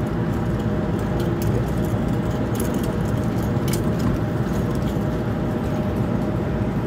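NJ Transit Bombardier bilevel commuter train alongside the platform: a steady rumble and hum from its equipment, with a few light clicks roughly three to four seconds in.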